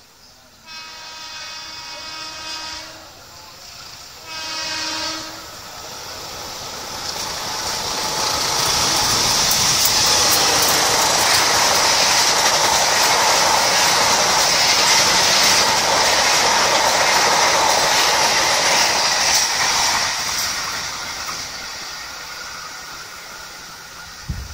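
Train horn blown twice, a long blast and then a shorter one, as a passenger train approaches. The train then passes close by, its wheels rolling over the rails in a loud, steady rush that builds, holds and fades away.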